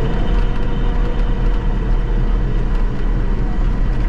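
Vehicle engine running steadily and loudly, a continuous low rumble with a faint steady whine over it.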